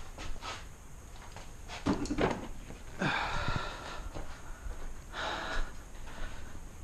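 A person breathing hard, with a couple of long exhalations, and a few light knocks from handling dash parts.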